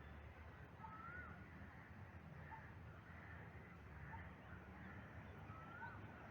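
Faint bird calls outdoors: a short chirp repeated about every second and a half, and twice a brief slurred whistle, over a steady low background rumble.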